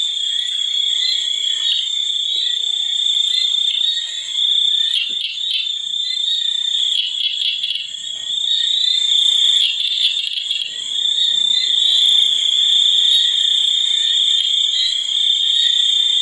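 Dense chorus of calling frogs, a steady shrill trilling that never lets up.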